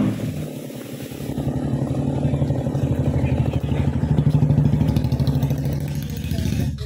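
Small engine running steadily at low revs with rapid, even firing pulses. It opens with a sharp knock, swells a little in the middle, then cuts off abruptly at the end.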